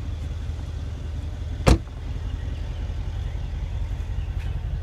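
Trunk lid of a Mercedes-Benz E63 AMG sedan unlatching with a single sharp clunk about two seconds in, over a steady low rumble.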